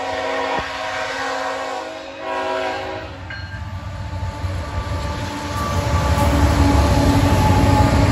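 Union Pacific freight train's diesel locomotive air horn sounding a chord, broken briefly about two seconds in and ending about three seconds in. Then the lead locomotives pass close by, their engine and wheel rumble growing louder.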